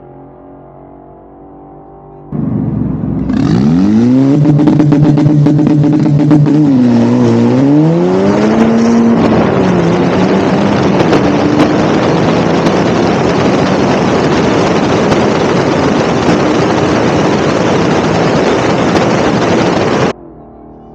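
Turbocharged four-cylinder of a 2015 Audi A3 drag car with hood-exit exhaust making a full-throttle drag-strip pass: the revs come up and hold on the line, dip on the launch and climb again, then the engine is swamped by a loud steady rush of noise at speed. The sound cuts off abruptly about a second before the end.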